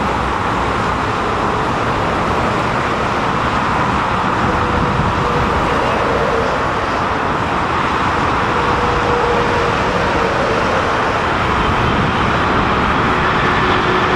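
Strong wind blowing over the microphone, mixed with the steady noise of jet aircraft engines at the airport; a faint engine whine grows clearer near the end.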